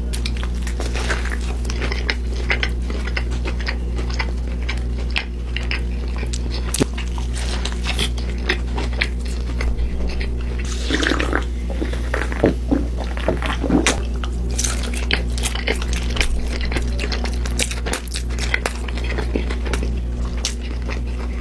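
Close-miked eating: irregular chewing, crunching and wet mouth clicks, with a few louder bites about halfway through, over a steady low electrical hum.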